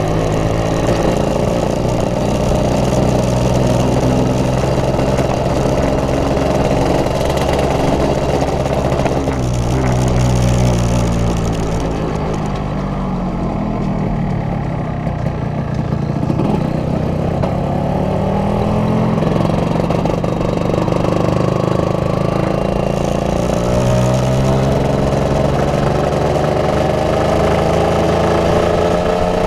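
1988 Yamaha RD135 two-stroke motorcycle engine under way, its pitch climbing as it revs up and dropping back at gear changes. It falls away for a few seconds around the middle as the bike slows, then climbs again through the later gears.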